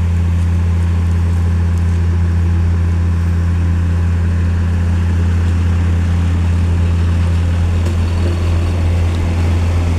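Engine running steadily, a loud, even low drone that doesn't change in pitch.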